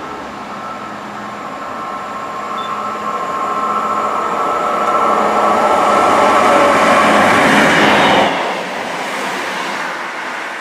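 Class 158 diesel multiple unit passing through at speed. It grows steadily louder over several seconds as it approaches, with a steady high whine above the running noise, then falls away suddenly as it passes about eight seconds in, leaving a fading rush.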